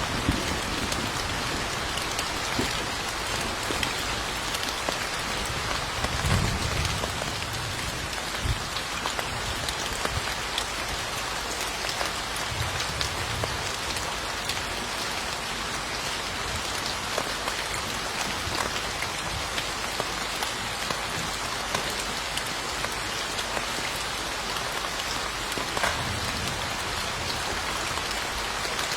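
Steady rain falling on a hard surface, an even hiss of dense drops. A few soft low rumbles of distant thunder swell up about six seconds in, again around the middle, and near the end.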